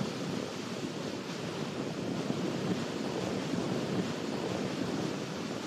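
Steady rush of water and wind aboard a Ferretti Yachts 580 motor yacht under way, its hull ploughing through the water at low speed before planing, with wind on the microphone.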